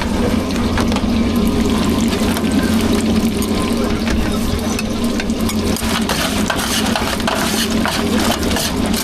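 Food sizzling and being stirred in a pan, with small clinks of utensils, over a steady low hum.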